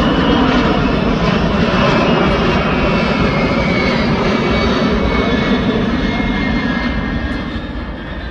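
Fixed-wing aircraft engine noise from an aircraft passing, with a whine that slowly falls in pitch and fades near the end.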